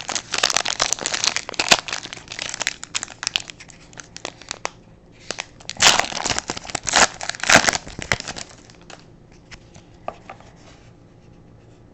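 Foil trading-card pack wrapper crinkling and being torn open, in dense crackles and sharp rips that are loudest about six to eight seconds in, then stopping.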